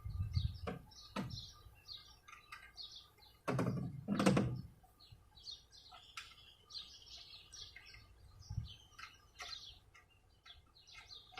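Small birds chirping and twittering throughout, with a few light knocks and a louder clunk about four seconds in.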